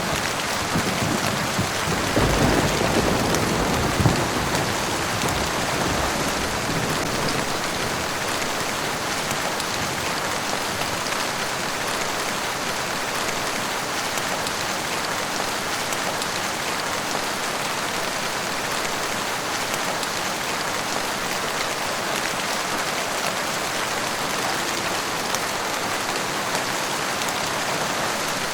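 Steady rain pattering down, with a low rumble of thunder fading out over the first few seconds.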